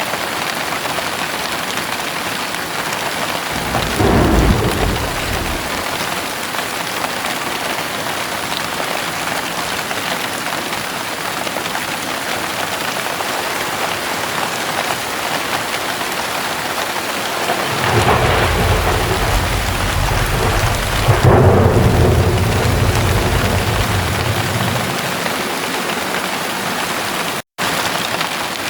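Heavy rain falling steadily, with thunder: a short low rumble about four seconds in, then a longer rolling peal that builds for several seconds, loudest near the middle, and fades away. The audio drops out for a split second near the end.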